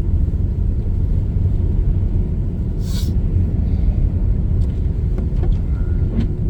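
Steady low rumble of a car's road and engine noise heard from inside the moving car on snowy roads, with a short hiss about three seconds in.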